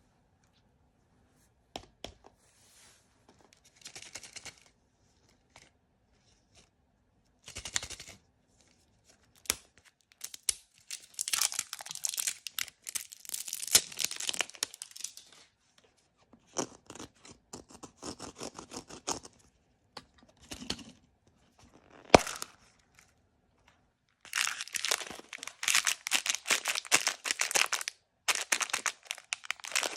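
Blind-bag packaging being torn open and crinkled by hand, in several bursts of crackly tearing and rustling with short pauses between, and a few sharp clicks.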